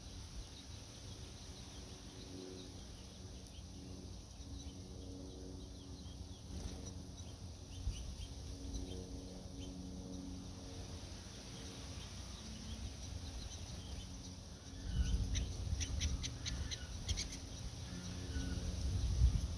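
Wind rumbling on the microphone, with low, drawn-out bird calls through the first part and a quick run of sharp, high bird chirps about three quarters of the way in, when the wind also gusts louder.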